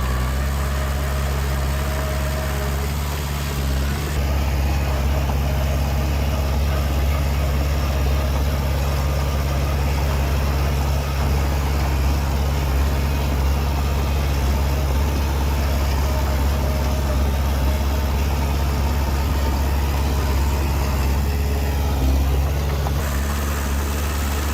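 Heavy construction machine's diesel engine running steadily at low revs, a deep, even sound.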